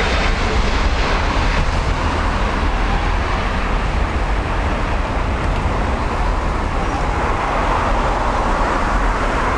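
Boeing 777-300 jet airliner's engines: a steady, unbroken noise with a strong low rumble and an even level throughout.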